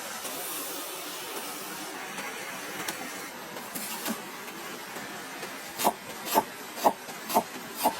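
A steady hiss with a few faint scrapes, then five short, sharp knocks evenly spaced at about two a second near the end.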